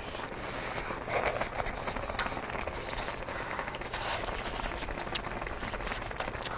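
Close-up eating sounds: moist chewing of noodles and seafood, with sharp little clicks of chopsticks against a glass dipping bowl.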